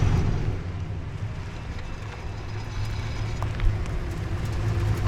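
Nissan Skyline C10 (Hakosuka) engine with Solex carburettors, headers and a Trust 50 mm muffler, driving: the low exhaust rumble falls away off the throttle about half a second in, then settles into a steady, slightly building drone. A single short click about three and a half seconds in.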